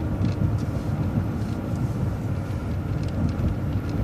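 MCO ViewMaster transit bus on the move, its engine and road noise a steady low rumble.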